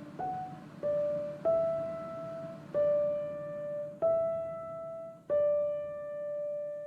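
Background music: a slow piano melody played one note at a time, six notes with the last one held and fading out.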